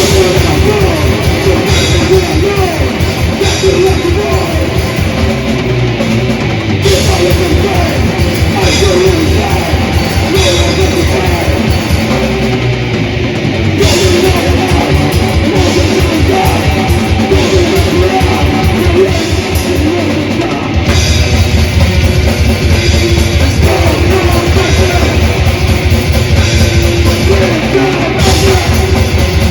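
A death/thrash metal band playing live: distorted electric guitars over a rapid, driving kick-drum pattern, with no vocals. The band comes in louder and heavier about two-thirds of the way through.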